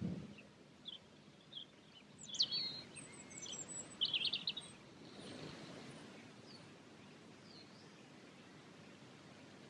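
Songbirds calling and singing: scattered short chirps, with a brighter run of quick notes between about two and four and a half seconds in, over faint outdoor background noise.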